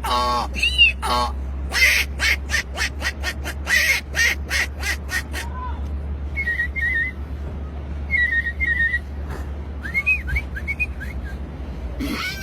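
A person imitating birdsong by whistling and with the mouth. First comes a fast run of sharp, evenly spaced chirps, then short warbling high whistles, then a few looping whistled glides near the end.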